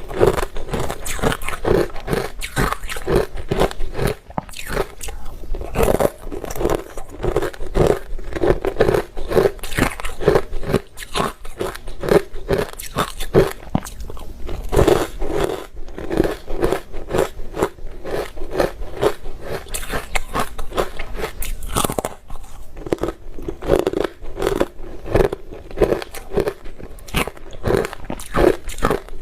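A person biting and chewing ice: dense, rapid crunching that keeps up in a steady chewing rhythm, with brief pauses between mouthfuls.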